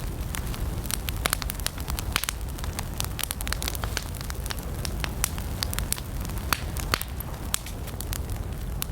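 Wood campfire crackling, with frequent irregular sharp snaps and pops over a steady low rumble.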